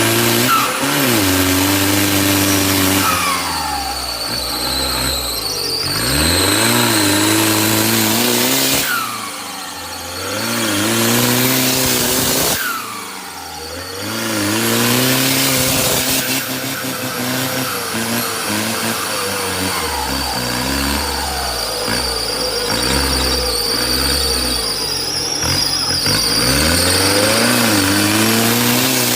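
Turbo-diesel 4x4 truck engine revving hard again and again, its pitch climbing and dropping every few seconds, with a high steady whine above it.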